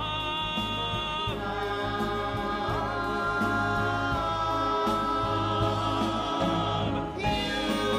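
Musical-theatre ensemble singing long held notes with accompaniment, the voices shifting to new chords about a second in, near three seconds, and again near seven seconds.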